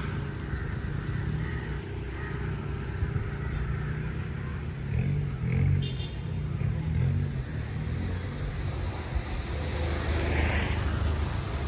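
Car engine and road noise heard from inside a moving car: a steady low rumble that swells now and then, with a brief rise in hiss near the end.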